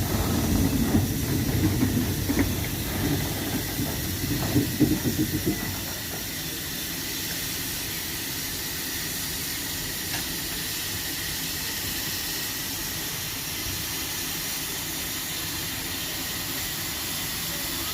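Steam locomotive hissing steam, steady and even. For about the first six seconds it is louder, with a low rumble and uneven puffs.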